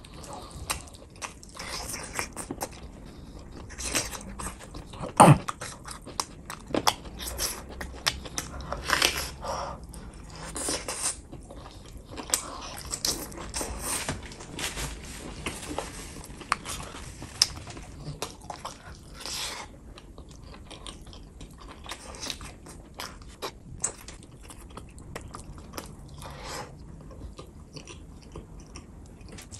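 Eating sounds: wet chewing and smacking of a mouthful of gravy-soaked rice and chicken liver and gizzard, with fingers squishing the rice on the board. Many short crunches and clicks come at irregular intervals, the loudest a sharp click about five seconds in.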